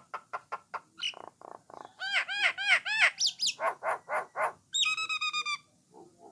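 A jalak Nias (jalak coklat) starling singing a fast, varied song: short clicking notes, then a string of about five quick arched chirps, two sharp rising whistles and a held note with a rasping edge, before a short pause near the end.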